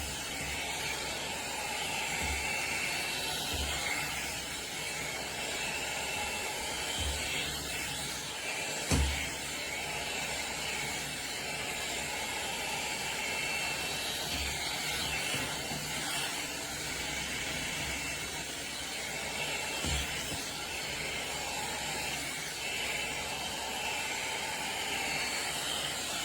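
Hot-air hair dryer brush blowing steadily, with a few low handling thumps.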